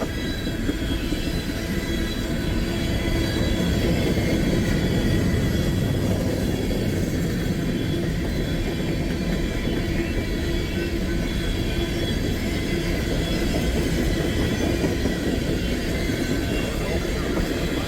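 Long crude oil train of tank cars rolling past, a steady rumble of wheels on the rails with thin, steady squealing tones from the wheels.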